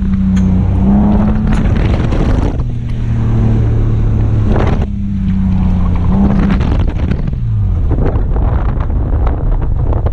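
Car engine pulling hard through an autocross run, heard from inside the cabin: the engine note holds, steps up and down in pitch with throttle and gear changes, and sags once about seven seconds in, over a steady rush of road and wind noise.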